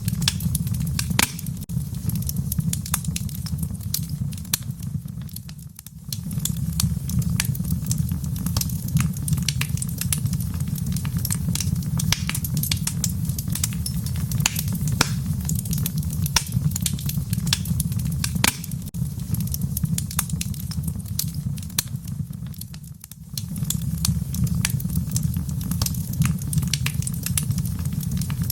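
Wood fire crackling and popping, with many irregular sharp snaps over a steady low rumble. The sound briefly drops away twice, about 17 seconds apart.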